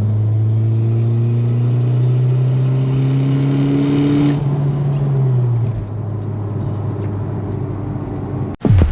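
Turbocharged 8-valve four-cylinder engine of a VW Jetta wagon pulling under throttle with the revs climbing steadily. A hiss rises with it about three to four seconds in. The revs then fall off about five and a half seconds in and the engine runs on lower.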